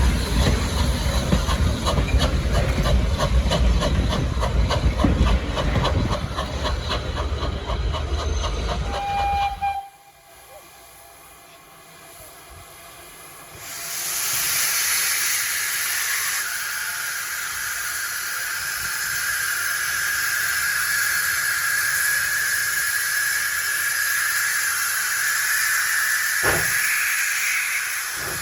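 Steam locomotive venting steam: a loud steady hiss that sets in about halfway through, with a faint steady tone running through it. Before it, a loud low rumble cuts off abruptly about ten seconds in.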